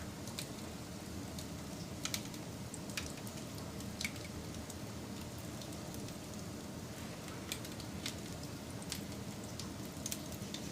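Wood fire burning with a steady low rush of flames and irregular sharp crackles and pops, roughly one every second.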